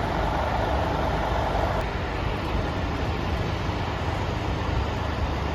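Scania diesel engine running steadily, with most of its sound in a deep low end.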